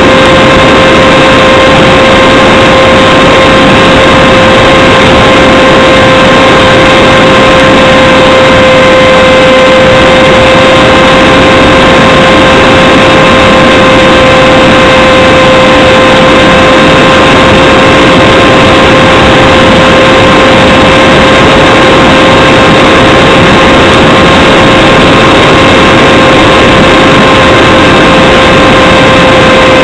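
Radjet 800 RC flying wing's electric motor and propeller running at a steady throttle, a loud whine held at one constant pitch, with wind rushing over the onboard camera's microphone.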